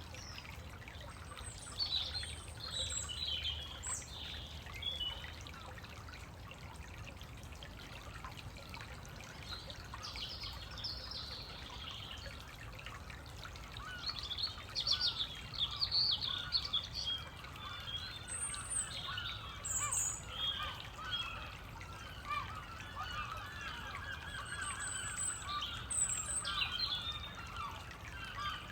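Small woodland stream trickling steadily while songbirds sing with short high chirps and phrases; from about two-thirds of the way in, a denser chatter of bird calls builds up and keeps going.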